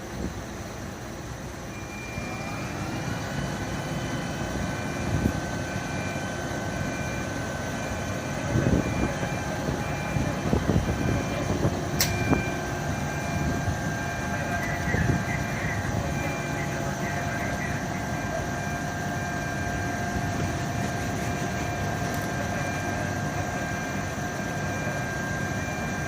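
A machine spins up about two seconds in and then runs with a steady whine, with a few knocks and clanks in the middle and one sharp click.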